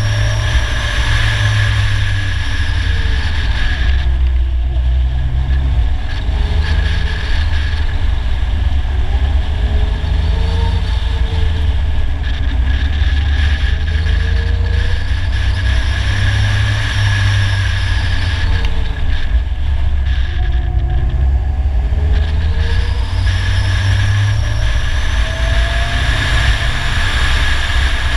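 Polaris Slingshot three-wheeler's engine running under way, its pitch rising and falling as it accelerates and eases off, with heavy wind and road rush over the hood-mounted microphone that eases twice.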